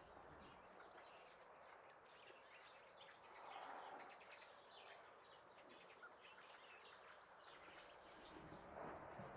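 Near silence: quiet room tone with faint, scattered bird chirps.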